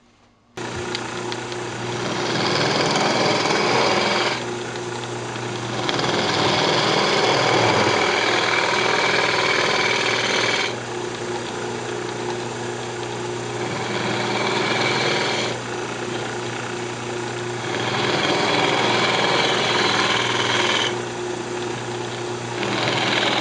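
Wood lathe starting about half a second in and running steadily, with a turning tool cutting into the spinning maple burl as the inside of a box is hollowed out. The cutting comes in stretches of a few seconds, with quieter lulls between where only the lathe runs.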